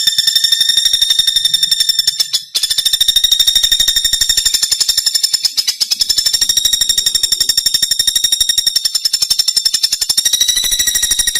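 Pelatuk bawang (common flameback woodpecker) giving a fast, continuous rattling trill of high, evenly repeated notes, with a short break about two and a half seconds in.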